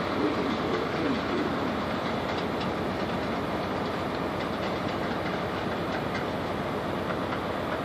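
GWR High Speed Train (InterCity 125) pulling away: a steady rumble of its diesel power car and wheels on the track, with faint clicks over the rail joints.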